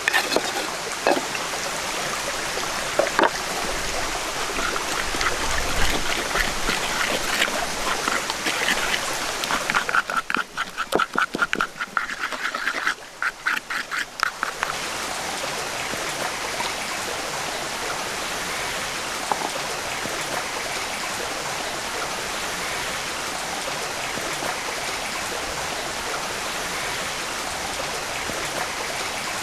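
Crackling, popping hiss of food frying, then a few seconds of rapid pulsing calls or chatter, then the steady rush of a running stream for the rest of the time.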